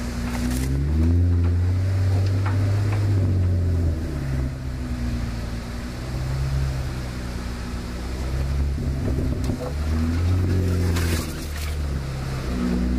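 Off-road 4x4's engine running at low trail speed, a low rumble whose pitch rises and falls several times as the throttle opens and closes. A few brief knocks and rattles come through, around the start and again near the end.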